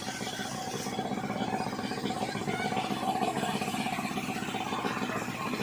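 Portable fire-fighting pump's engine running steadily.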